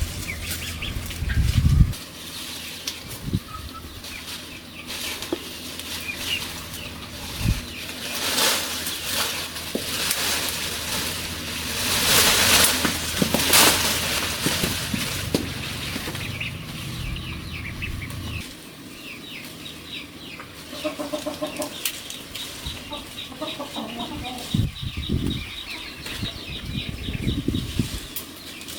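Poultry flapping their wings amid noisy rustling bursts, with clucking in the second half.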